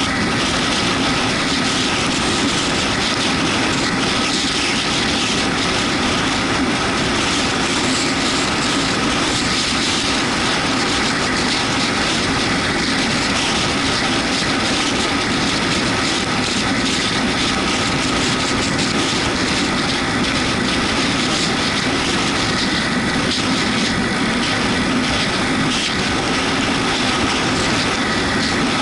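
Yamaha MT-125's single-cylinder four-stroke engine running at a steady cruise, under a loud, even rush of wind and road noise.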